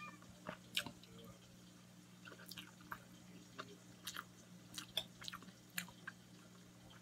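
A person chewing spaghetti in tomato sauce: faint wet chewing and mouth clicks, scattered irregularly, over a steady low hum.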